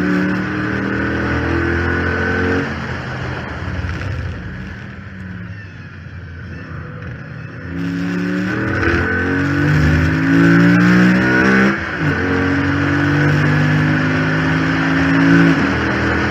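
Chrysler 300 SRT8's 6.4-litre HEMI V8, heard from the hood scoop, easing off and then accelerating hard, with a quick shift near the end where the pitch drops and climbs again. A steady high whine runs over it, which the owner puts down to the failed power steering pump, making it sound like a supercharged Hellcat.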